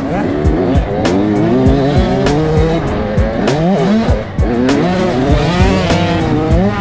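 Several motocross dirt bike engines revving up and down through gear changes, their pitch rising and falling over and over.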